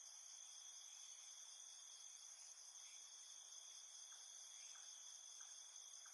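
Faint, steady insect chorus in several high-pitched bands, with a few soft short calls scattered through it.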